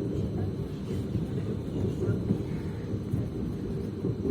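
Passenger train running, a steady low rumble of its wheels on the rails.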